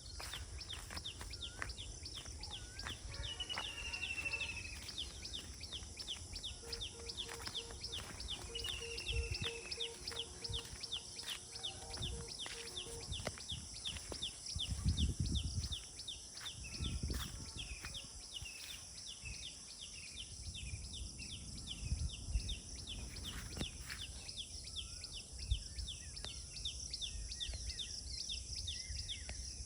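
Outdoor natural ambience: a steady high insect drone with a rapid, regular ticking call running throughout. Two short falling bird whistles come early, and a run of evenly spaced low notes sounds in the middle. A few low rumbles come around the middle.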